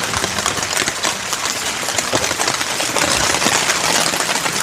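Heavy rain falling steadily, a dense hiss of many small drop impacts.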